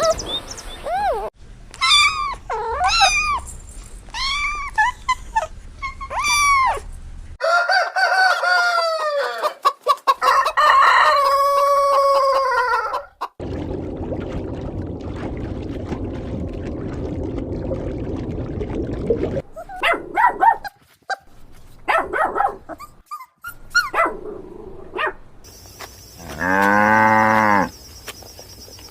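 A run of different animal calls cut one after another, with chickens among them: repeated arching calls about once a second, then dense calls ending in long held crows, a stretch of steady noise, short calls, and one long drawn-out call near the end.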